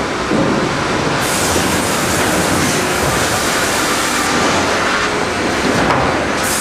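Sawmill line for cutting pallet boards running: loud, steady machinery noise.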